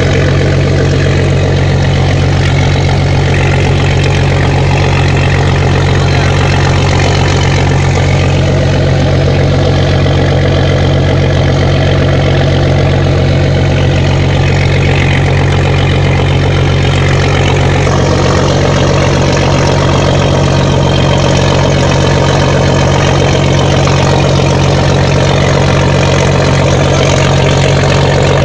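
Heavy engine running steadily at an unchanging speed, a loud low drone with no revving.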